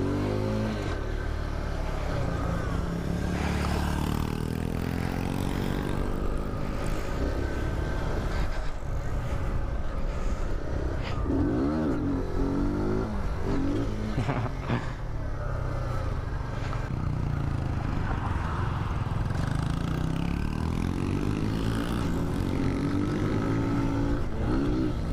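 Small single-cylinder mini-bike engines running while riding, repeatedly revving up and easing off, over a steady low rumble.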